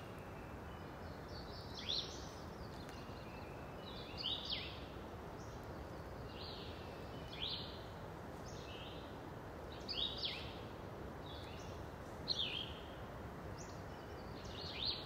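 Small birds calling in the background: short, high, rising chirps every second or two over a faint steady hiss of open-air ambience.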